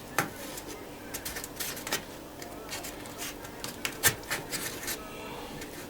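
A few scattered light clicks and taps over quiet room tone, the sharpest about four seconds in.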